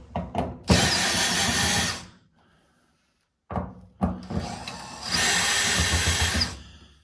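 Power drill/driver run in two bursts, a short one and then a longer one about four seconds in, driving screws while the dryer door is being switched to open from the other side.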